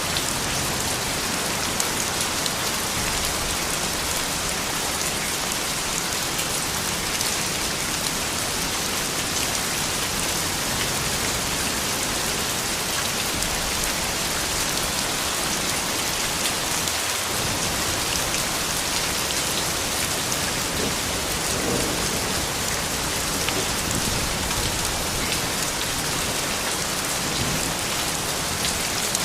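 Steady rain falling: an even hiss with the dense patter of individual drops striking surfaces.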